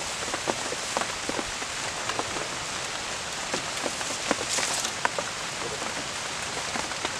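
Heavy rain falling steadily, with frequent sharp taps of individual drops landing close by.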